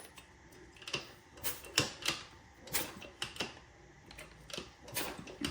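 Scattered sharp clicks and light metallic taps, irregularly spaced, from hand work with tools and parts on a small two-stroke dirt bike engine.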